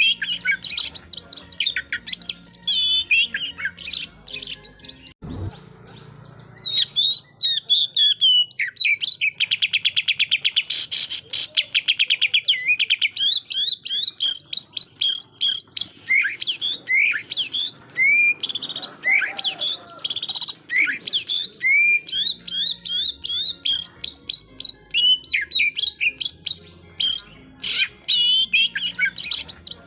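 Oriental magpie-robin (kacer) singing loudly in a fast, varied run of whistles and chirps. About nine seconds in comes a rapid, machine-gun-like trill lasting about three seconds, the 'tembakan' (shooting) phrase. A short thump sounds about five seconds in, just before a brief pause in the song.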